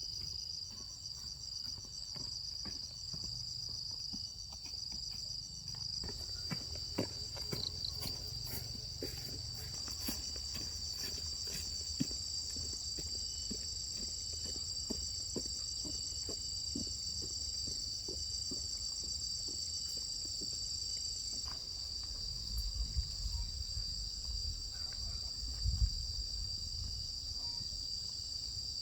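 Steady high-pitched chorus of insects trilling without a break, with a run of light taps or steps from about six seconds in to about sixteen seconds, and a few low rumbles near the end.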